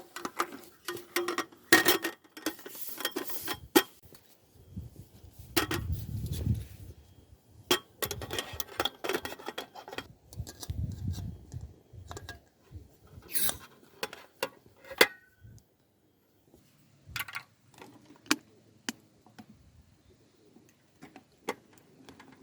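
Irregular clicks, clinks and knocks of camp cooking gear being handled, with two short low thuds about six and eleven seconds in.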